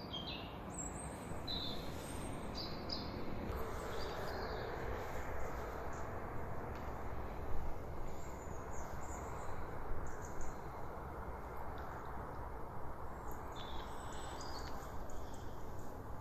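Small wild birds chirping in short, scattered calls, with a steady background hiss.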